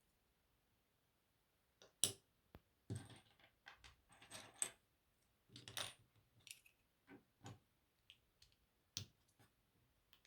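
LEGO pieces clicking and rattling as they are handled and snapped together. The clicks are sharp and irregular, starting about two seconds in, with short clusters of rattling in the middle and another sharp click near the end.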